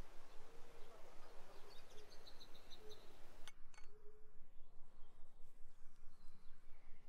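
Outdoor garden ambience with birds calling, including a quick run of high chirps about two seconds in. A single sharp click sounds about halfway through.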